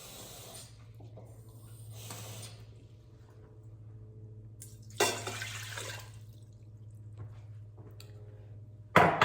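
Kitchen tap running and shutting off within the first second, then water poured into the Instant Pot's inner pot for about a second around five seconds in. A sharp knock comes near the end, over a steady low hum.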